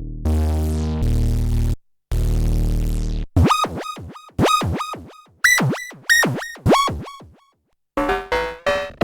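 Arturia MicroFreak synthesizer playing presets. First comes a low, bass-heavy held note, cut off briefly and struck again. Then a quick run of short, bright plucked notes, each with a fast downward pitch sweep, fades out, and a different patch starts up with rapid notes near the end.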